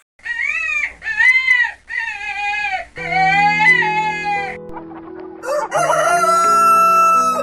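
Roosters crowing: four loud crows in quick succession, each rising and then falling in pitch. Background music comes in about three seconds in, and near the end a long, high, held animal call sounds over it.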